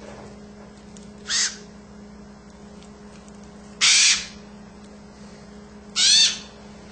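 Three short, loud, harsh squawks from an adult blue-and-gold macaw, about a second and a half in, about four seconds in, and near the end, over a steady low hum.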